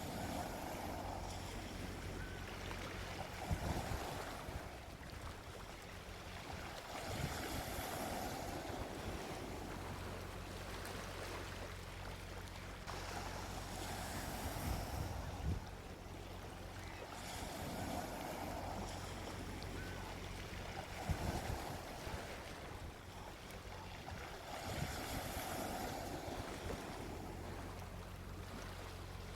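Gentle sea waves washing onto a beach, the surf swelling and fading every few seconds. A few brief low buffets of wind hit the microphone.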